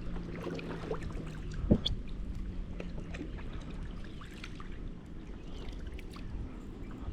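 Water trickling and lapping around a canoe, with light scattered knocks and one louder thump against the hull about two seconds in. A faint low hum fades out at about the same time.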